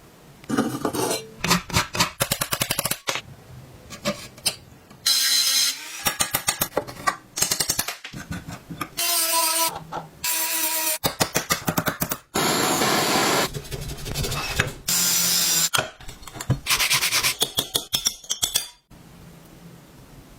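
Rapid scraping and brushing strokes on rusty metal, in short segments that start and stop abruptly, with a few brief metallic rings.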